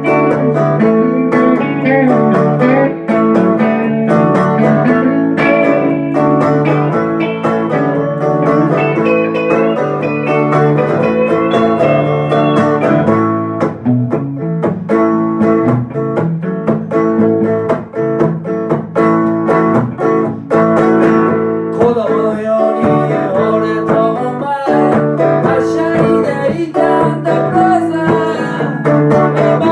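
Blues guitar playing: plucked strings picking a steady, repeating bass line under faster melody notes.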